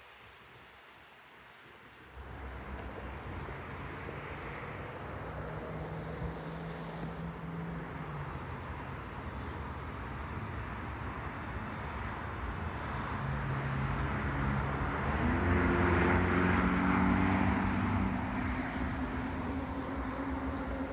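Long Island Rail Road train running on continuous welded rail: a steady rumble with a low hum, without any clickety-clack from rail joints. It comes in abruptly about two seconds in and builds to its loudest near the end.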